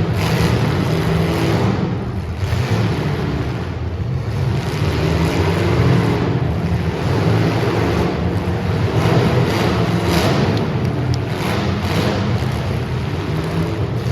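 Super Stock race car engines running hard on track, a steady loud drone of racing engines under load.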